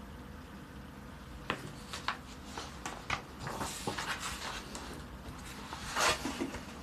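Pages of a paper colouring book being handled and turned: scattered light taps and paper rustles, with the loudest rustle near the end.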